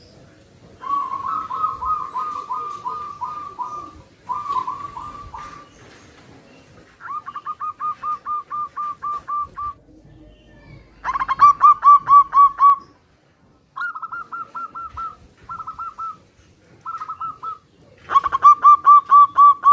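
Zebra doves (perkutut) cooing, several birds answering one another in turn. Each bout is a quick run of short, clipped coo notes, with louder and softer bouts alternating and the loudest coming near the middle and near the end.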